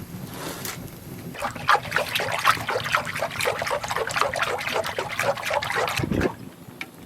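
Milk squirting in quick rhythmic jets into a pail as an animal is milked by hand, starting about a second in and stopping near the end with a low thump.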